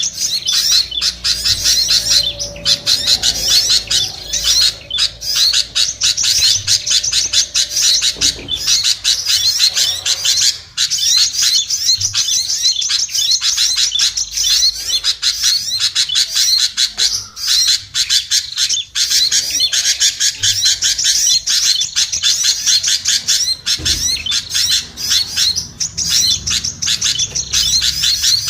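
Dense, excited chatter of many small songbirds: rapid high chirps and squawking calls overlapping without pause, a bird-lure recording meant to draw small birds down.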